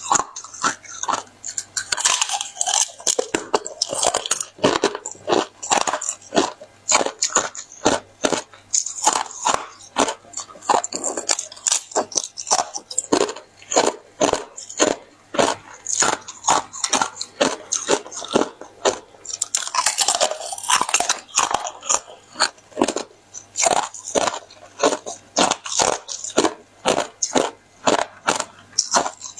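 Hard ice being bitten and chewed close to the microphone: a steady run of loud, crisp crunches, a few every second, as a hollow block of ice breaks between the teeth.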